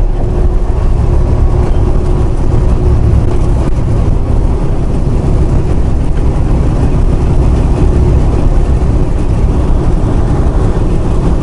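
Steady drone of a semi truck's engine and road noise heard from inside the cab while cruising on the highway.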